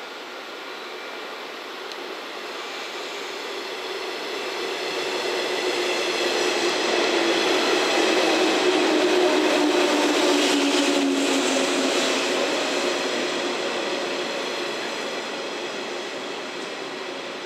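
JR West 115 series four-car electric train running past along the platform. Its rumble and several steady tones grow louder, peak about halfway, then drop slightly in pitch and fade as it moves away.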